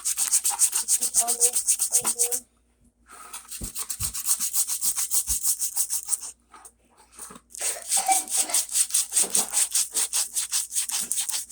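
Sandpaper rubbing back and forth over Bondo glazing putty on the roof of an O scale model car, quick rapid strokes in three bouts with two short pauses, taking the hardened filler down smooth.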